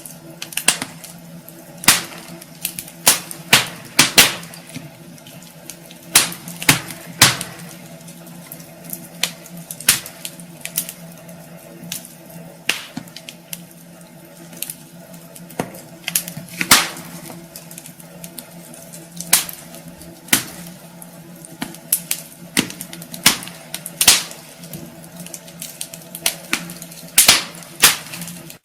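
Wood fire crackling in a fireplace: irregular sharp pops and snaps from the burning logs, some loud and some faint, over a faint steady hum.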